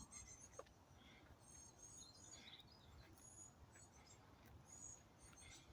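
Faint birdsong: short, high chirps scattered through an otherwise quiet background.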